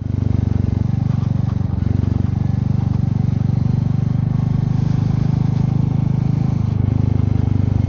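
Royal Enfield Meteor 350's single-cylinder engine running steadily as the motorcycle cruises along, its firing pulses even throughout.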